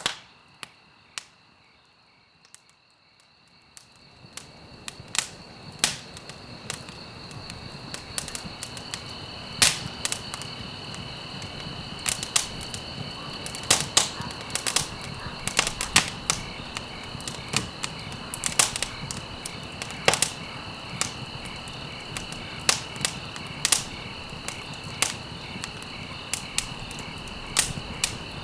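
Wood fire crackling in a fireplace: frequent sharp pops and snaps over a low hiss of burning, which swells up about four seconds in.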